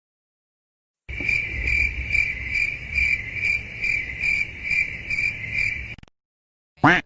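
Cricket-chirping sound effect, the stock 'awkward silence' gag: a high chirp pulsing about twice a second over a low rumble. It starts about a second in, out of dead silence, and cuts off abruptly, followed near the end by a brief swish.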